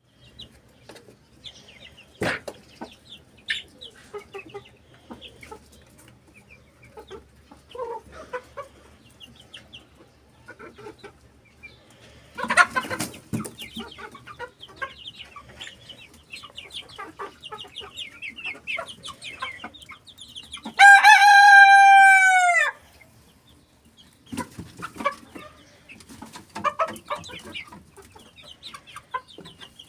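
Young three-month-old cockerel crowing once, about two thirds of the way in: a single held call of about two seconds that drops in pitch as it ends. Scattered clucks and chirps from fowl run through the rest.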